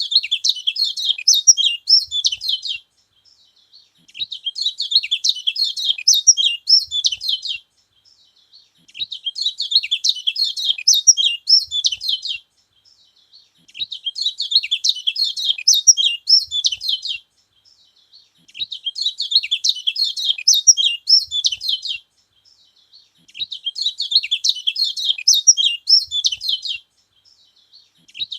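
Kecial kuning songbird singing rapid, high twittering phrases about three seconds long, repeated about six times with short even pauses between them. This is the song kept to rouse and provoke other kecial birds.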